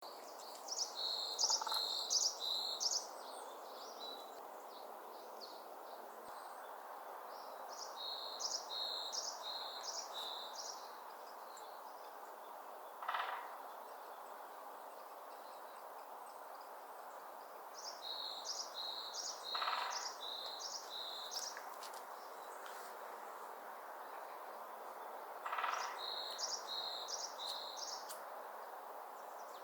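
A wild bird singing four short phrases of quickly repeated high, clear notes, several seconds apart, over a steady outdoor hiss. A short, lower note sounds three times between and within the phrases.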